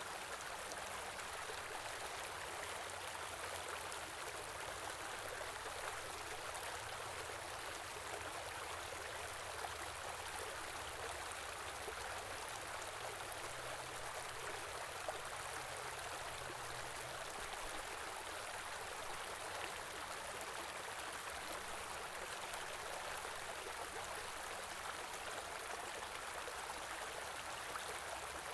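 Stream of running water flowing steadily, an even, unbroken sound of water splashing over its bed.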